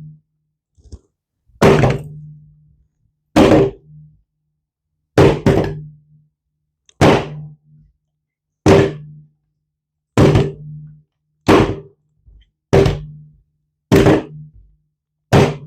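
A loaded Sig Sauer P320 pistol being dropped onto a hard surface again and again in a drop test: about ten sharp thuds, one every second or two, each with a short low ring. No shot: the pistol does not go off.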